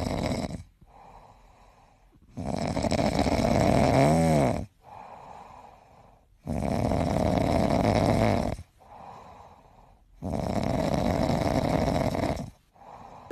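Grey cat snoring in its sleep: three long, loud snores about four seconds apart, each lasting about two seconds, with fainter breaths between them.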